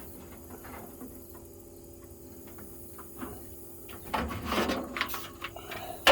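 Metal toolbox drawer-slide parts being pushed and worked by hand: light clicks at first, then a busier stretch of metallic scraping and knocks from about four seconds in, ending in a sharp knock.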